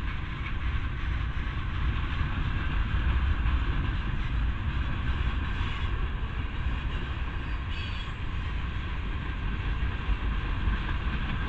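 Norfolk Southern freight train's boxcars and tank cars rolling past, a steady noise of steel wheels on the rails.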